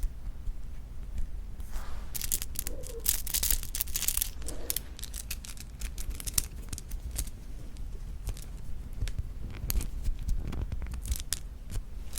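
Close-miked chewing of soft, sticky rice cake (tteok): clusters of wet, sticky mouth clicks and smacks, densest about two to five seconds in and again near the end.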